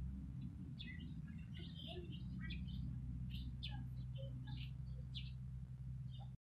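Birds chirping in short, scattered calls over a steady low hum; the sound cuts off abruptly near the end.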